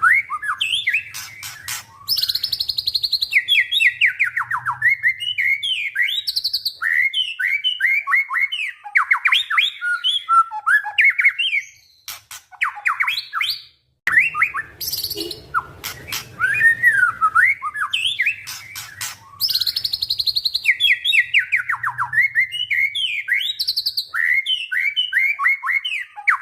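White-rumped shama (murai batu) singing a long, varied song of rapid whistles, trills and chattering phrases, with a short pause about halfway through. A faint low hum sits under parts of the song.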